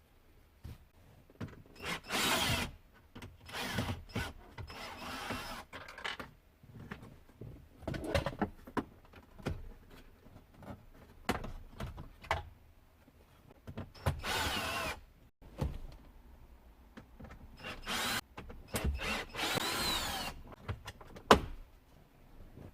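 Irregular bursts of scraping and creaking with sharp clicks from hands-on work on the dashboard of a Hyundai IONIQ 5 while its audio head unit is being removed. A loud click near the end.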